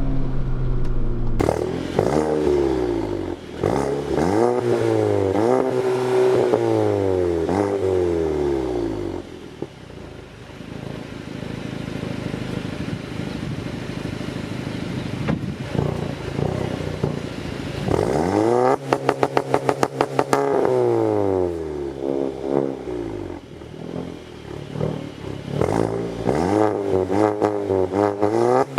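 Volkswagen MK7 GTI's turbocharged 2.0-litre four-cylinder with a catless downpipe, accelerating hard with the revs climbing and dropping through several gear changes, then easing to a quieter cruise. About two-thirds of the way through it pulls hard again, with a fast run of sharp pulses laid over the rising note.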